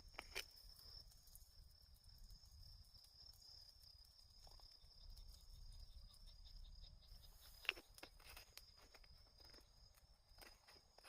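Faint, steady chirring of insects, with scattered small clicks and one sharper snap a little after the middle.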